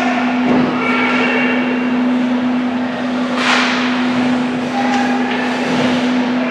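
Ice hockey rink during youth play: skates scraping and carving on the ice over a steady low hum. One sharp skate-stop scrape comes about three and a half seconds in.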